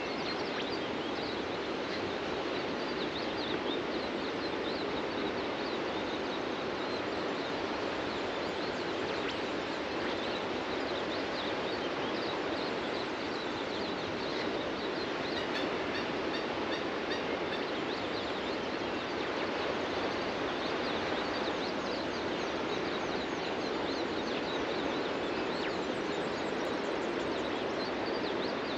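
Ocean surf breaking on a beach as a steady wash of noise, with birds chirping over it throughout.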